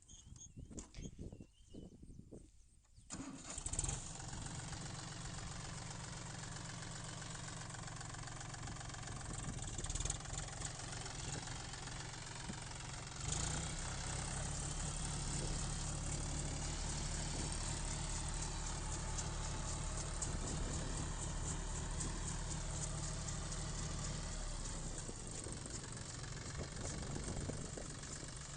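John Deere 5042 D tractor's three-cylinder diesel engine starting about three seconds in, then running steadily. About ten seconds later it is revved up higher, and it drops back near the end.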